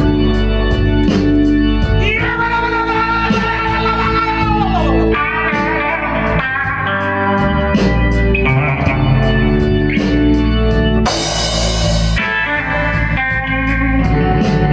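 Blues-rock band playing live: an electric guitar plays over a steady drum beat and bass. Around four to five seconds in, a guitar note bends downward, and a cymbal crash comes about eleven seconds in.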